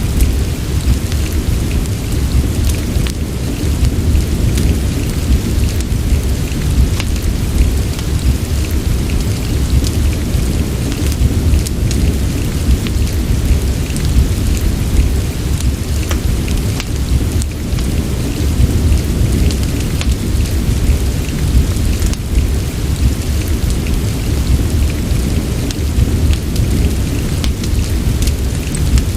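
Rain-and-fireplace ambience: steady rain hiss over a deep, constant low rumble, with frequent small sharp crackles scattered throughout.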